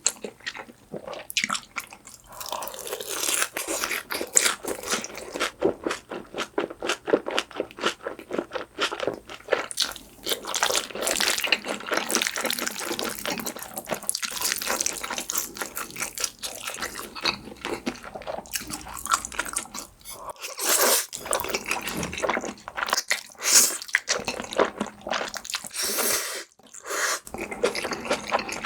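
Close-miked crunching and chewing of crisp fried tangsuyuk (Korean sweet-and-sour pork), with wet mouth sounds, a dense irregular run of crackles and bites.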